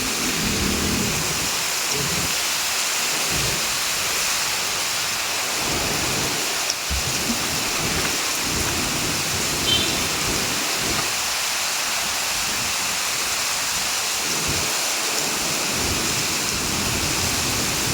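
Heavy rain falling steadily, a dense even hiss, with uneven low rumbles coming and going underneath.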